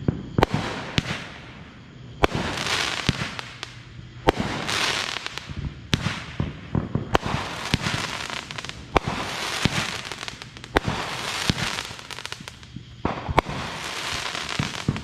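Consumer fireworks going off in quick succession: sharp bangs about once a second, many followed by a crackling hiss lasting about a second.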